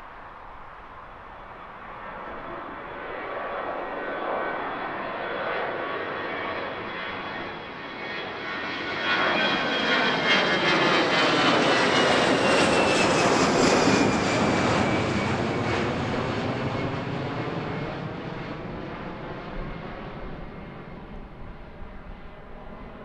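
Airliner passing close by on the runway, its engine noise swelling to a peak about halfway through and then fading, with a whine that slides down in pitch as it goes past.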